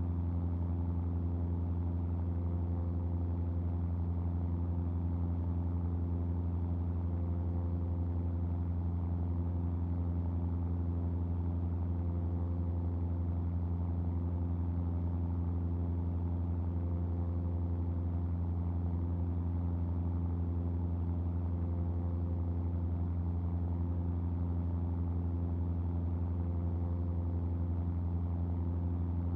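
Cessna R182 RG's six-cylinder Lycoming O-540 piston engine and propeller droning steadily in flight, with a deep, even hum and no change in pitch.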